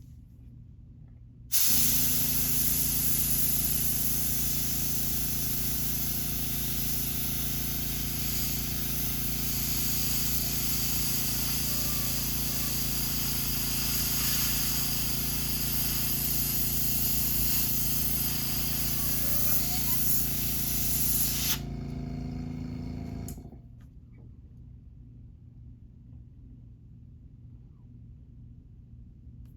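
Airbrush spraying paint, with its small air compressor running: both start suddenly about a second and a half in. The spray's steady hiss stops about twenty seconds later, and the compressor's hum winds down and stops a couple of seconds after.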